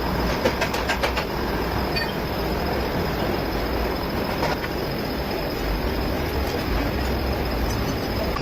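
Heavy truck diesel engine running steadily with a deep rumble, and a few sharp clicks in the first second or so.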